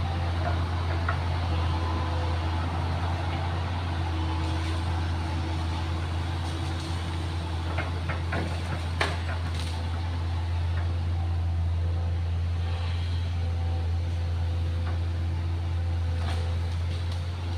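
Excavator diesel engine running at a steady speed with a strong low hum, and a few sharp knocks or cracks about halfway through and near the end.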